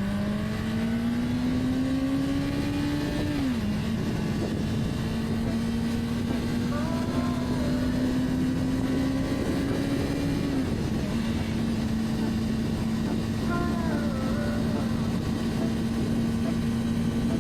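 Honda CBR600RR's inline-four engine running under way, its pitch climbing slowly and then falling sharply at an upshift about three and a half seconds in, rising again and dropping at a second shift about ten seconds in, and otherwise holding steady. A steady rush of noise runs beneath it.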